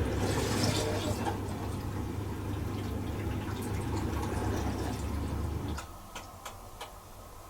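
Bosch Serie 4 SMS46MW05G dishwasher running: a pump hums steadily under the swish of water, then cuts off suddenly about six seconds in, followed by a few light clicks.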